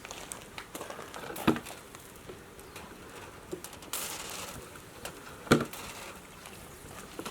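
A few sharp knocks and clicks, two louder ones about a second and a half in and about five and a half seconds in, with a brief hiss around four seconds in.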